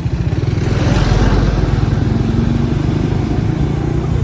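Motorcycle engine running at road speed, a rapid pulsing rumble, with a rush of wind and road noise swelling about a second in.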